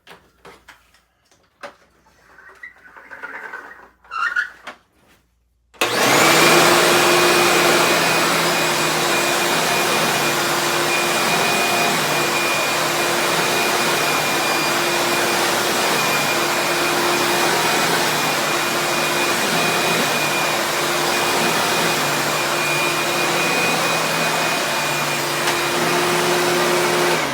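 Vintage Eureka Boss Plus upright vacuum cleaner switched on about six seconds in, after a few clicks and knocks of handling, then running loud and steady with a constant high whine over its motor noise. The loudness is normal for an old Eureka.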